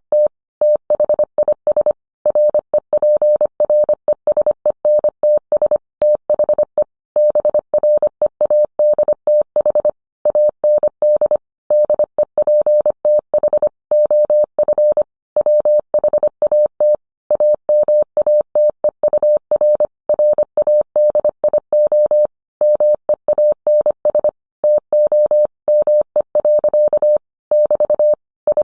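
Morse code: a single steady mid-pitched tone keyed on and off in dots and dashes at an even sending speed.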